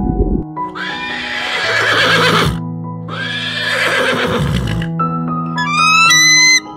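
Two long whinnying calls from a horse-family animal, each lasting about two seconds, over soft background music. Near the end a run of high, clear whistle-like notes begins, each rising at the start.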